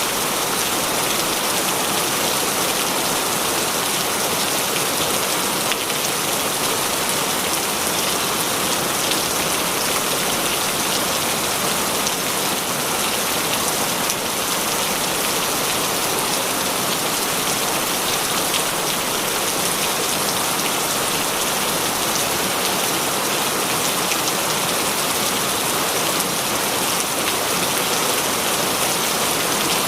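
Heavy rain falling steadily, a dense even hiss of many drops hitting surfaces, with no let-up.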